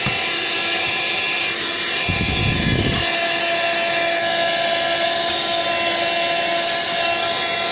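Vovoly 12 V handheld car vacuum cleaner running steadily with a high motor whine and rushing air, its nozzle working over a sandy car mat. A brief low rumble comes about two seconds in.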